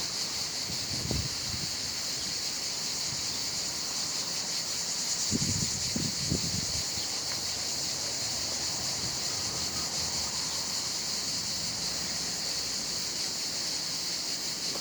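A steady, high-pitched chorus of cicadas shrilling without a break, with a few soft low thumps about halfway through.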